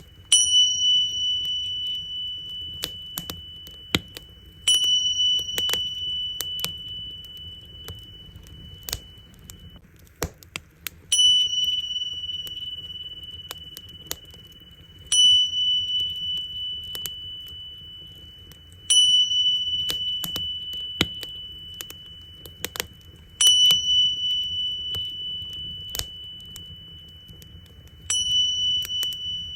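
Tingsha cymbals struck about seven times, roughly every four seconds, each strike a bright, high ringing tone that slowly fades. Underneath, a wood fire crackles with scattered sharp pops.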